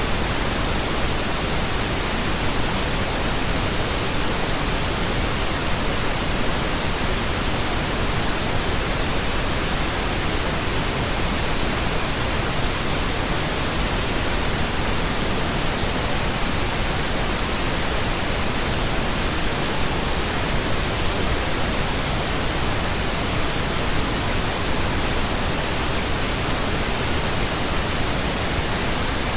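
Steady pink noise: an even, unchanging hiss across all pitches, weighted toward the low end, without any events.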